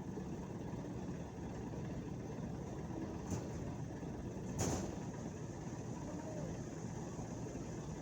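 Steady low rumble of vehicle engines, with a sharp knock a little past halfway and a fainter click just before it.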